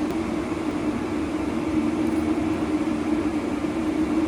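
A steady mechanical hum with a constant low drone and an even rushing noise over it, like a running fan, heater or machine.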